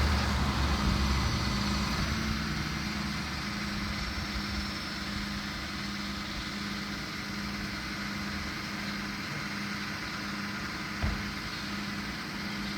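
Tow truck engine idling steadily, a little louder for the first two seconds, with a low hum that swells and fades about once a second. A single knock comes about eleven seconds in.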